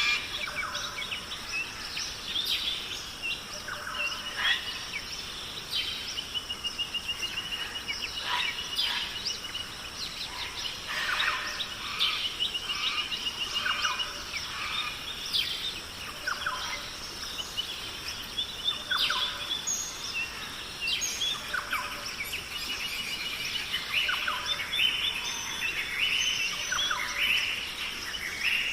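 Several birds chirping and singing at once, with many short calls and a few rapid trills, over a steady high hiss.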